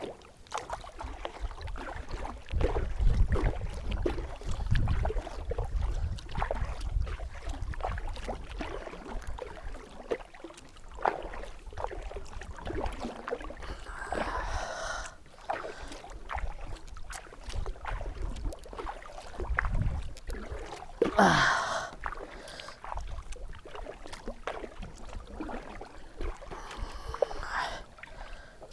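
A kayak on the water: paddle splashes and knocks against the plastic hull, with a low rumble of wind and handling on the microphone. There are louder splashy bursts about halfway through and again a few seconds later.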